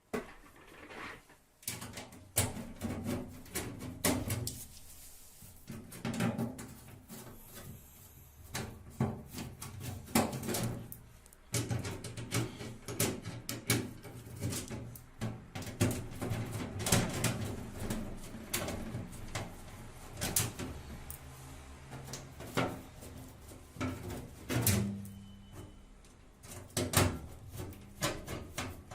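Indesit WISL 105 X washing machine running, a low motor hum under irregular knocking and clattering throughout. This is the noise of worn, rusted drum bearings that have developed play, letting the tub knock against the casing.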